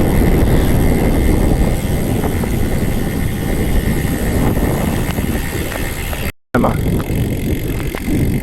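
Wind rushing over the microphone of a camera on a moving bicycle: a loud, steady rumble with no clear tones. It drops out completely for a moment about six seconds in.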